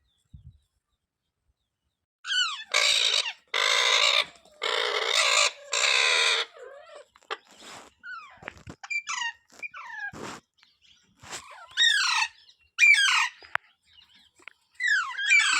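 Parrot calling: after about two seconds of quiet, four loud, harsh screeches in a row, then a string of shorter calls that glide down in pitch.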